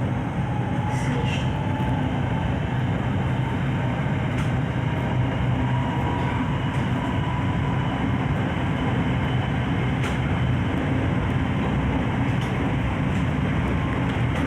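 SRT Red Line electric commuter train running: a steady rumble with a low hum, and a faint high whine through the middle.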